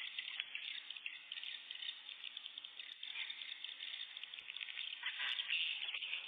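Swiftlets twittering: a dense, continuous chatter of many high chirps, growing a little busier near the end.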